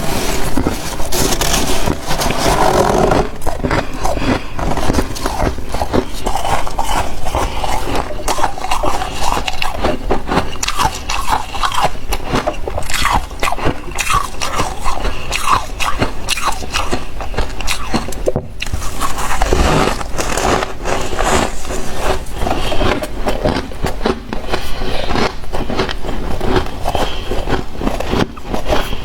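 Freezer frost being bitten and chewed: a dense, continuous run of crisp crunches, with a momentary pause about two-thirds of the way through.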